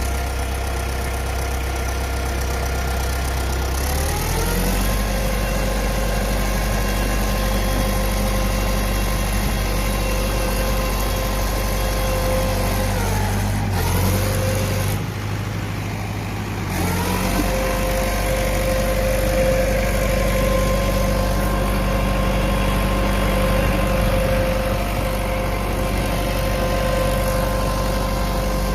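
Tractor diesel engine running steadily. It is revved up about four seconds in and held, drops back to idle around the middle, then is revved up again a few seconds later and held.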